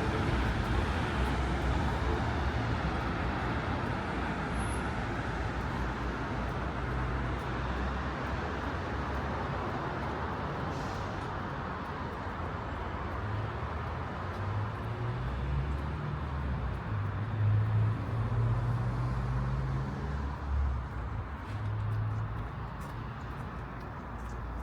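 City street traffic: cars driving past, a steady rush of tyres and engines. A low engine hum grows louder toward the middle and is loudest about two-thirds of the way through as a vehicle passes close.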